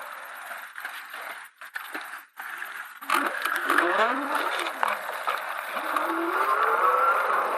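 Electric motorbikes riding off, with a motor whine that glides up and down in pitch as the bikes change speed, over wind and road noise. About three seconds in it gets louder, and near the end the whine climbs steadily as the bike speeds up.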